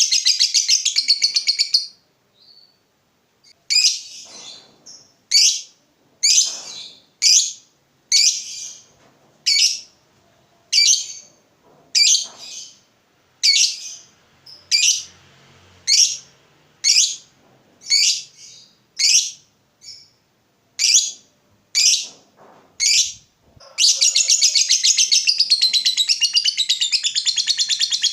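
Lovebird ngekek: a fast, high-pitched chattering trill that breaks off about two seconds in. After a short pause come single sharp chirps, a little over one a second, for about twenty seconds. The rapid chatter then starts again near the end.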